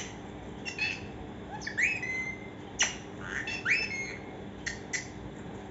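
Pet parrot giving a series of short squawks and chirps, two of them quick rising whistled calls that level off, with sharp clicks between them.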